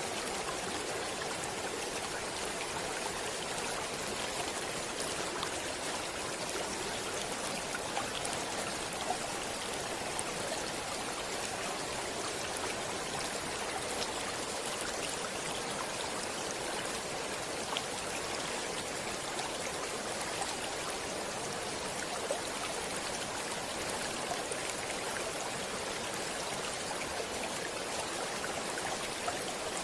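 Stream water flowing steadily, a continuous rushing hiss with a few small sharp splashes scattered through it.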